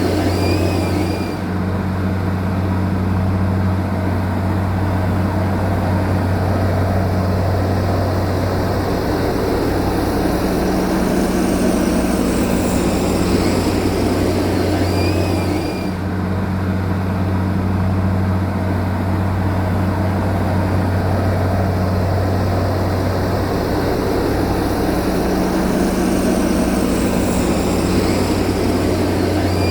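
Heavy machinery's diesel engine running steadily, a low drone whose pattern repeats about every 15 seconds.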